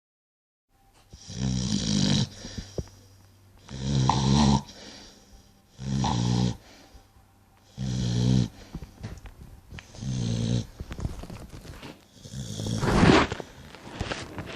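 Dog snoring, about one snore every two seconds, six in all; the last, near the end, is the loudest.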